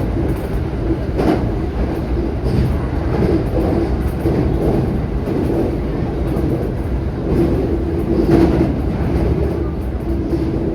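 JR 227 series electric multiple unit running on the line, heard from the front of the train: a steady rumble of wheels on rail with a low hum that comes and goes, and a few brief clatters as it rolls over the track.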